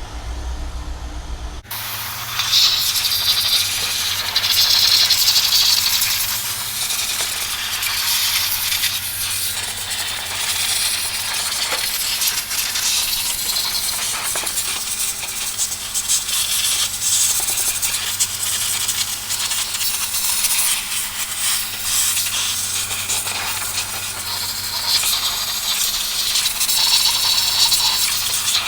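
Continuous hissing spray with spatter against a motorcycle engine as it is washed down, starting abruptly about two seconds in.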